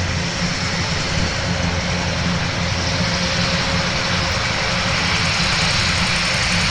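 Aircraft engines running steadily at an airport, a loud even noise with a low hum under it.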